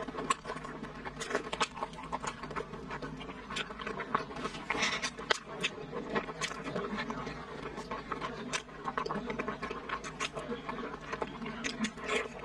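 Close-miked chewing and lip-smacking of braised pork, with irregular wet-sounding smacks and clicks several times a second.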